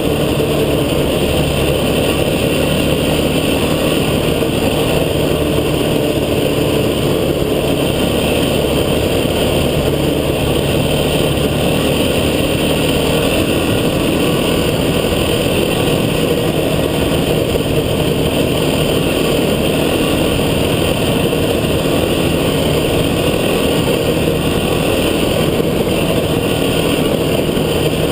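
Off-road vehicle's engine running steadily under way, a loud continuous drone with no change in pace.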